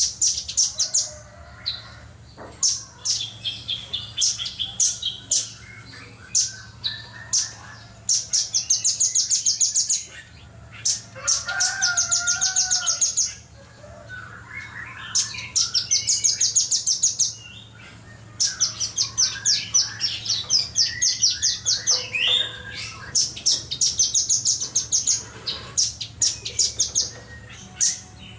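Velvet-fronted nuthatch (red-billed nuthatch) calling in very fast, tight trills of sharp, high notes. The trills come in repeated bursts of one to three seconds with short gaps, over fainter, lower twittering.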